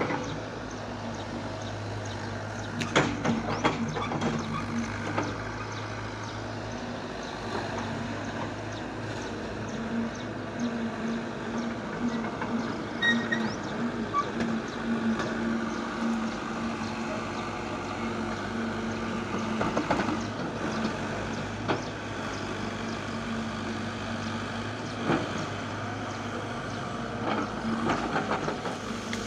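Heavy machine's engine running steadily, with sharp metallic knocks and clanks now and then.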